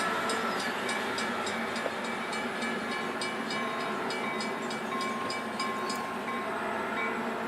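A passenger train running past on the rails, with a rapid regular ticking of about four a second that stops near the end.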